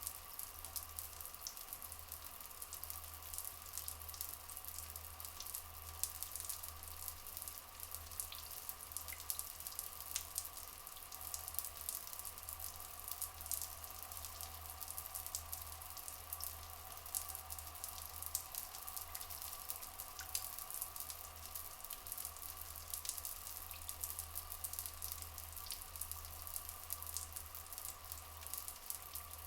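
Steady trickle of flowing water, with many small drips and splashes crackling on top.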